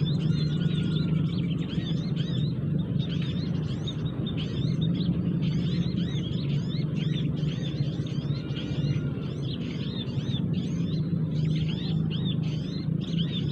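Busy chatter of many small birds, a constant stream of quick, high, overlapping chirps, over a steady low rumble.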